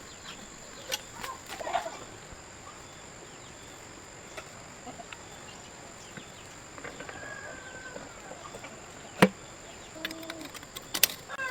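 Faint, scattered animal calls, with two sharp knocks: one about nine seconds in and a louder one near the end.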